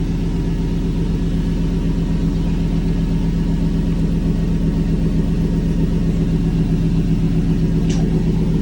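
Truck engine idling steadily at an even pitch.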